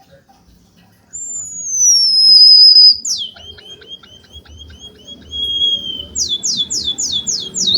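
Songbird singing: a long falling whistle, then a string of quick down-swept notes, then a faster run of loud down-slurred notes near the end.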